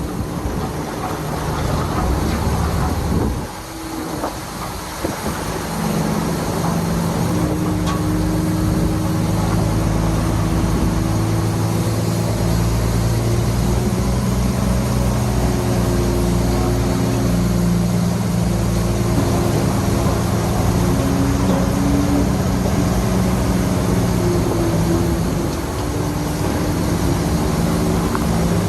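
Heavy diesel engine of earthmoving machinery working steadily, with a brief drop in level about three to five seconds in and a slight dip near the end.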